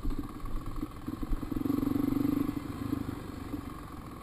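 Dirt bike engine running with a rapid pulsing note; it grows louder for about a second partway through, then drops back to a steady idle.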